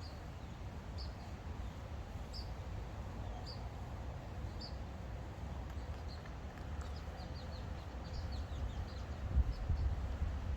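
A small bird chirping: short high chirps about once a second, then a quicker run of short falling chirps later on. Wind rumbles on the microphone throughout, gustier near the end.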